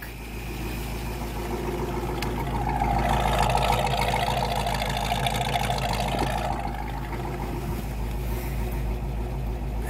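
1967 Shelby Mustang's 289 Hi-Po V8 idling steadily. Its exhaust note grows louder for a few seconds from about two and a half seconds in, then settles back.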